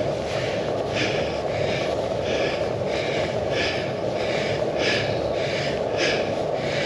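A cyclist breathing hard while pedalling uphill, quick rhythmic breaths each less than a second apart, over steady wind and road noise on the handlebar-mounted camera.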